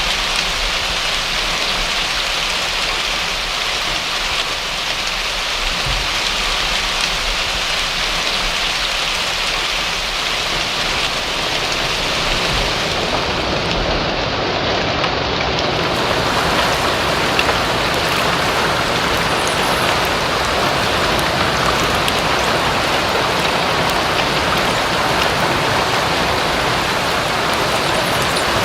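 Steady rain falling, an even, dense hiss of drops. About ten seconds in it grows fuller and deeper.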